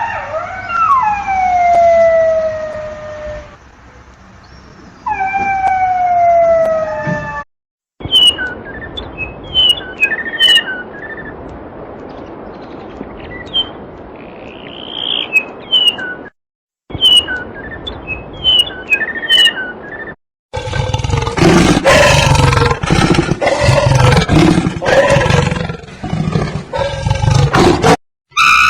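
A run of separate animal-call clips joined by abrupt silent cuts: first long falling calls, then high chirps over a steady hiss, then a loud rough roar in the last third.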